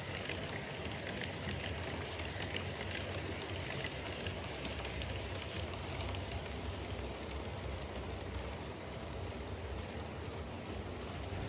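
Model railway train running on a layout, a steady rolling hum with a rapid patter of light clicks from the wheels on the track.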